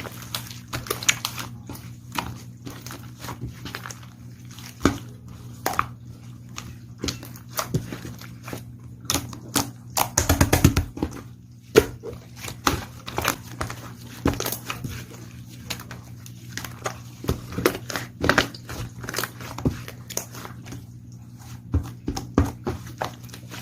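Irregular chewing, biting and crinkling sounds: many sharp clicks and crackles at an uneven pace, with a denser burst about ten seconds in, over a steady low hum.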